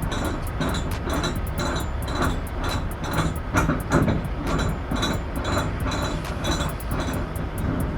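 Heavy truck on the move: a steady low road and engine rumble with rapid, irregular rattling and clinking.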